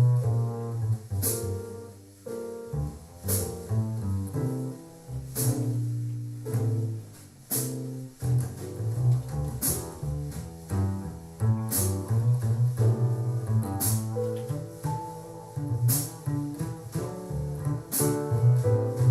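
Slow jazz instrumental passage with a double bass line, other instruments above it and a sharp stroke about every two seconds, played back through a JBL Control 28 loudspeaker.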